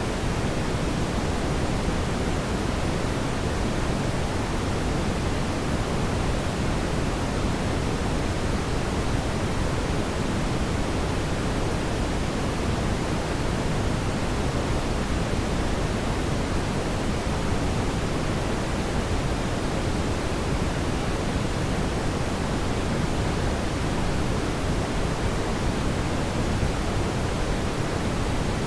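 Fireplace ambience: a steady, even rushing noise of burning fire, with no distinct crackles or pops standing out.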